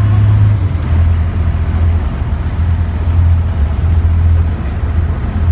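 A boat's engine running steadily, a loud low drone whose pitch drops slightly about half a second in.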